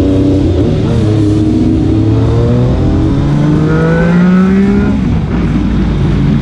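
Motorcycle engine accelerating, its pitch rising steadily for about four seconds, then dropping suddenly at a gear change, with music playing along.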